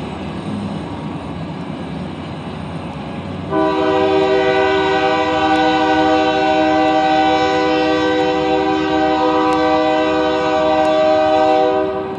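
Freight locomotive air horn: one long blast of about eight seconds, a chord of several tones, starting about three and a half seconds in. Under it runs the steady rumble of the passing diesel train.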